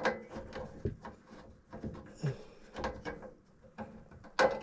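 Scattered clicks and knocks of hand tools and small parts being handled on a gas furnace while its capacitor is being reached. There are a couple of dull thumps, and the sharpest, loudest knock comes near the end.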